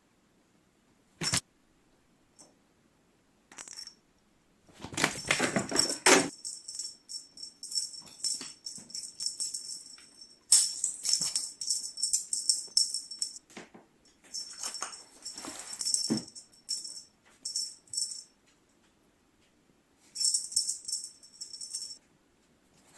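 Bursts of high, jingling rattle that come and go with short silent pauses, starting about five seconds in and loudest at the first burst. A single sharp click comes just over a second in.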